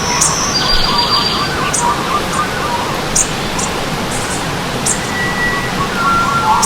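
Stream water running steadily, with several birds singing over it: short high chirps repeated every second or so and rapid warbling phrases.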